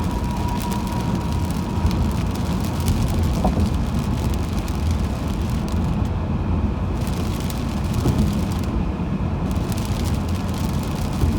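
Car driving on a wet highway in the rain: a steady low road rumble with fine ticking of rain over it. The high hiss briefly drops out twice near the middle.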